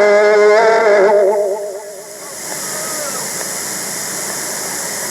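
A man chanting Quran recitation holds one long, wavering, ornamented note that fades out about a second in. A steady hiss follows in the pause between verses.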